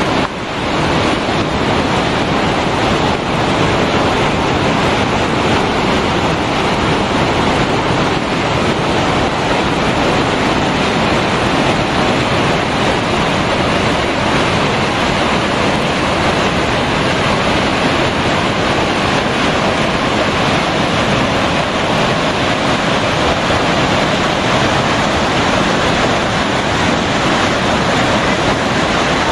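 Falling water of a waterfall, a loud steady rush with no let-up.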